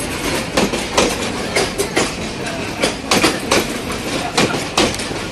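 Bangladesh Railway's Balaka commuter train running at speed: a steady rushing rumble with a rapid, uneven series of sharp wheel clacks over the rail joints, often coming in pairs.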